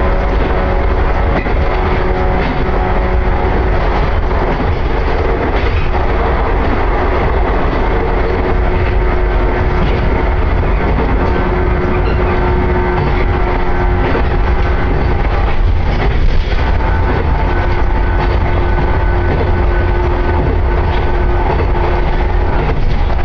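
Electric train running at speed, heard from inside the carriage: a steady low rumble with a few held tones over it and an occasional knock from the rails.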